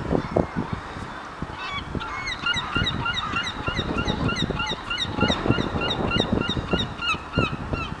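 Birds calling in a rapid run of short, shrill repeated notes, starting about a second and a half in and stopping just before the end, over a low rumbling background.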